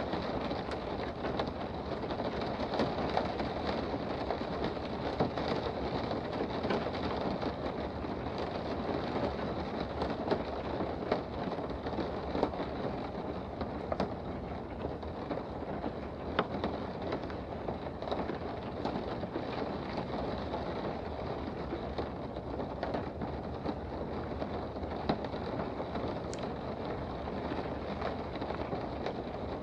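Steady rain heard from indoors, an even hiss with many small drops ticking irregularly on a surface.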